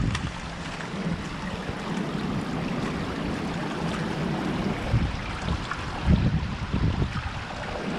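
Strong wind buffeting the microphone in gusts, heaviest about five to seven seconds in.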